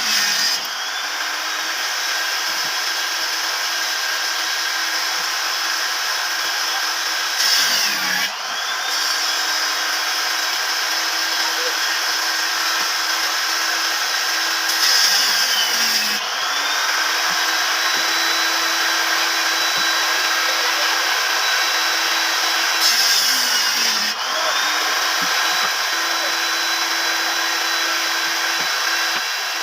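An electric woodworking power tool motor runs with a steady high hum. About every eight seconds it briefly drops in pitch and recovers, with a short burst of harsher cutting noise, as it bogs down under load in the wood, four times in all.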